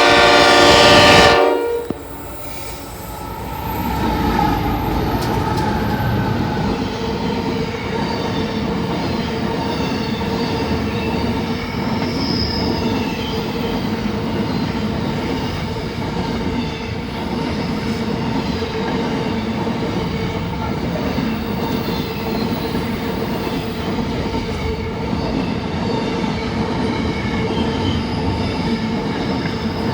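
Locomotive horn sounding one loud blast of about a second and a half, then the train rolling steadily past with continuous wheel-on-rail noise and a steady wheel squeal.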